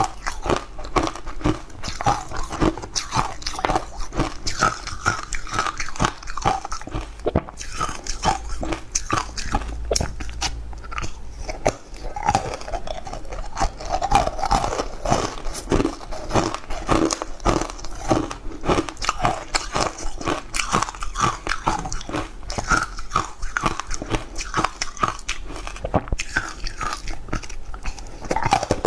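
Crunchy chewing and biting: a dense, continuous run of crisp crunches from someone eating.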